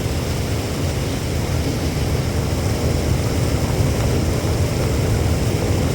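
Storm wind buffeting the microphone with heavy rain: a steady deep rumble that doesn't break or change.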